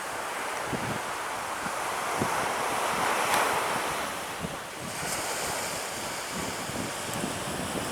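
Surf washing on a beach, one wave swelling about three seconds in, with gusty wind buffeting the microphone.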